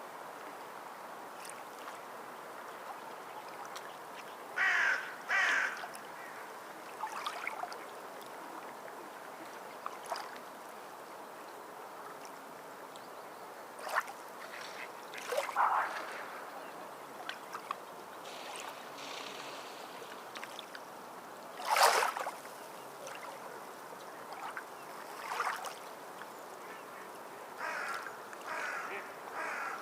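Birds calling in short harsh bursts over a steady wash of water: a pair of calls about five seconds in, the loudest call about twenty-two seconds in, and a quick run of calls near the end.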